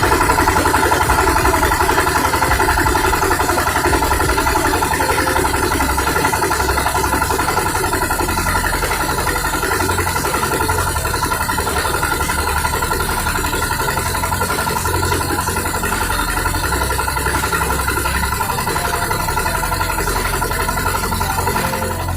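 Rice-milling machine running steadily under its engine, a continuous even mechanical drone with no change in speed.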